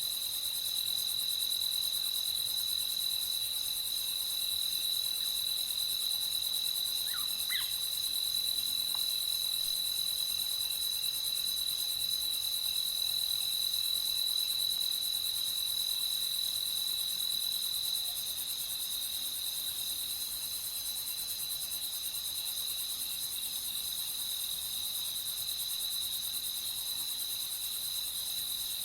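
Crickets trilling steadily at night, a continuous high-pitched tone without pause. A couple of brief, faint chirps from another small animal about seven seconds in.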